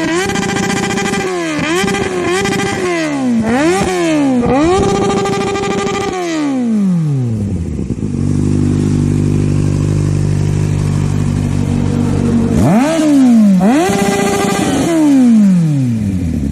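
Kawasaki Z800's inline-four engine, fitted with an SC Project aftermarket exhaust, revved in a run of quick blips, the last one held, before settling to a steady idle. About thirteen seconds in it is revved twice more, then drops back to idle.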